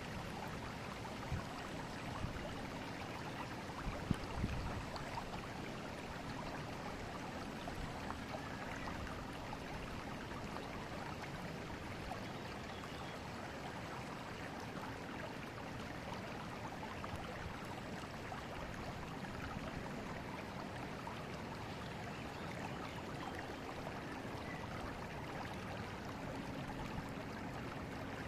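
Forest river flowing steadily, an even rush of moving water. A few brief low bumps stand out in the first five seconds.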